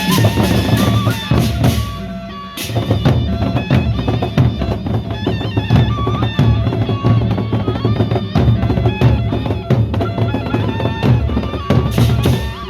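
Live processional band music from a Sasak nyongkolan wedding procession: heavy drumming with a melody line over it, dipping briefly about two seconds in and then carrying on at full strength.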